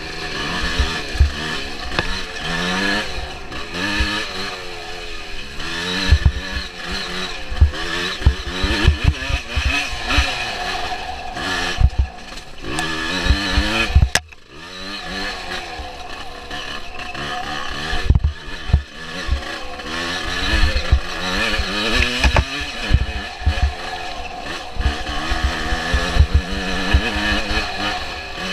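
Suzuki PE175's single-cylinder two-stroke engine revving up and down continually on a rough trail, with frequent knocks and clatter from the bike over the ground. About halfway through the engine sound drops sharply for a moment after a sharp click, then picks up again.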